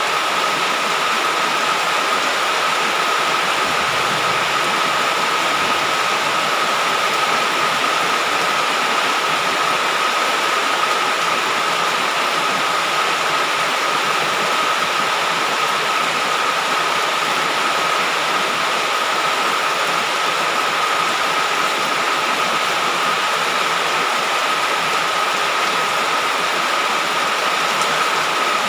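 Heavy rain falling in a steady, unbroken hiss, with a thin steady high tone held throughout.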